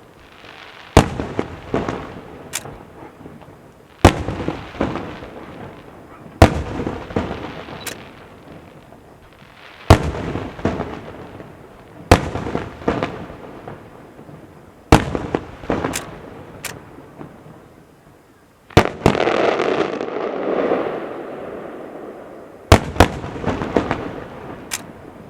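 Maltese festa aerial fireworks: loud single bangs every two to three seconds, each followed by crackling and echo that dies away. About two-thirds of the way through, one bang is followed by a longer, dense crackle lasting a few seconds.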